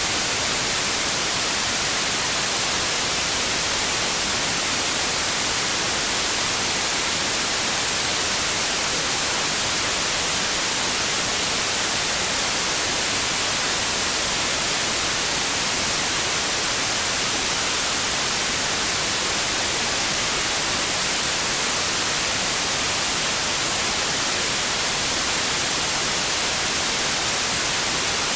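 Steady white noise: an even, unchanging hiss, strongest in the treble, with no other sound.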